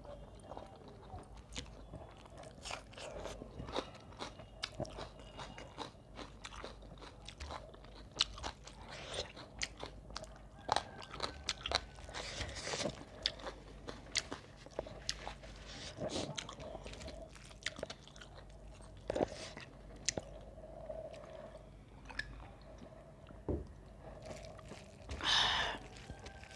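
Close-miked chewing and mouth sounds of a person eating rice and curry by hand: irregular wet smacks and clicks, with a couple of short hissy sounds near the middle and at the end.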